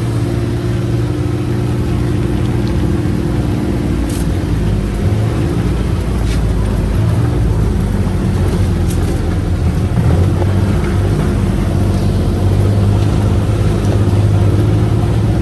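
UTV engine running steadily as the vehicle drives along a trail, its low hum constant with a few faint clicks over it.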